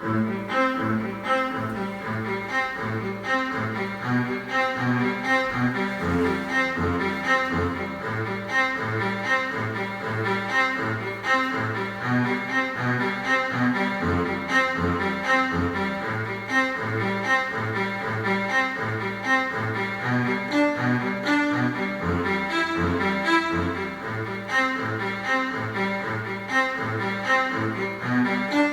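Recorded string-ensemble music: cellos, basses and violins playing a cinematic instrumental, with the low strings pulsing in an even, repeated rhythm under sustained higher lines.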